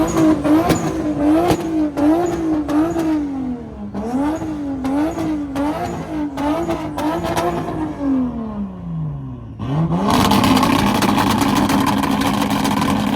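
Car engine being revved in a rev battle, blipped up and down in an even rhythm about twice a second, then falling away and, about ten seconds in, held at high revs with a rapid stutter, as when bouncing off the rev limiter.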